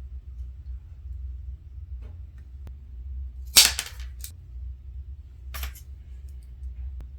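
Duct tape ripped from the roll in three short, sharp rasping bursts; the first, a little past halfway, is the longest and loudest, over a low steady hum.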